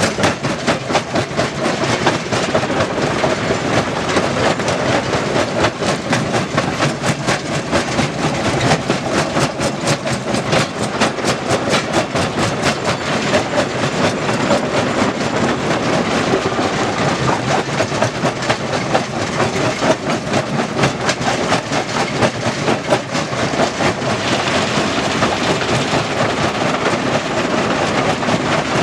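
Stone crusher running, with a loud, steady, dense rattle of stones being broken and shaken through the machine.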